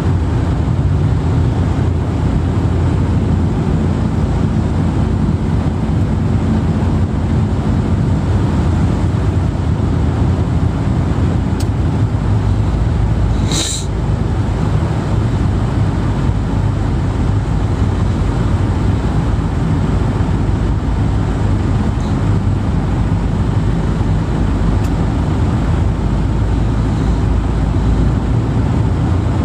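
Steady low rumbling noise like a moving vehicle's road and engine noise, with one brief high hiss about halfway through.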